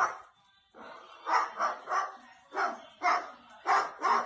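A run of short barks, about two a second, some in quick pairs.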